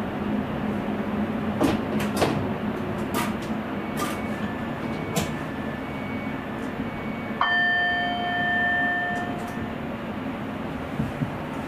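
Sprinter electric train running, heard from the driver's cab, with a steady rumble and a few sharp clicks from the track. About seven seconds in, a steady tone with several pitches starts suddenly and lasts about two seconds.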